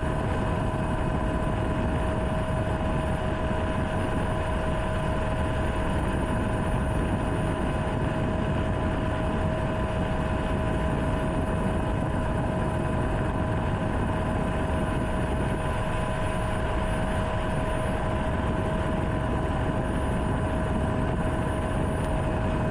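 Helicopter engine and rotor noise, steady and unchanging, with a constant high whine over a dense rushing background.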